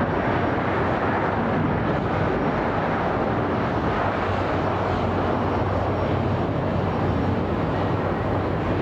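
Jet engine noise from a Delta Airbus A330-300 with Pratt & Whitney PW4000 engines arriving: a steady rush of noise with a low hum underneath.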